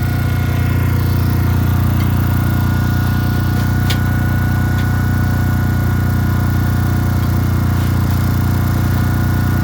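Construction machinery running steadily: a constant low, engine-like hum with a steady whine above it, and one sharp click about four seconds in.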